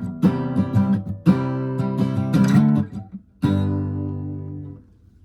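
Acoustic guitar strumming the song's closing bars, then one last chord struck about three and a half seconds in that rings out and fades away.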